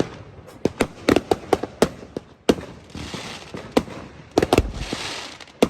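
Fireworks going off: a rapid, irregular string of sharp bangs and cracks, with stretches of hissing crackle between them.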